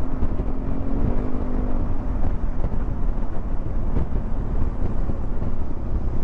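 Wind buffeting and road noise while riding a Yamaha XMAX 300 scooter at cruising speed, with a heavy low rumble; a steady engine hum fades out about two seconds in.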